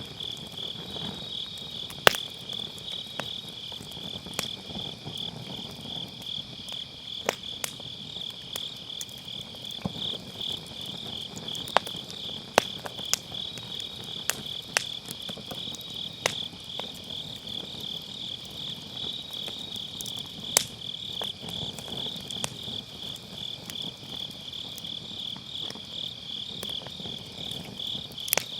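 Crickets chirping in a steady, fast-pulsing trill, with a burning wood fire crackling underneath and giving scattered sharp pops, the loudest about two seconds in.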